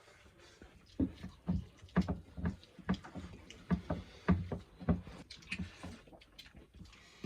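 A person eating: a run of short, soft eating sounds about twice a second, easing off after about five seconds.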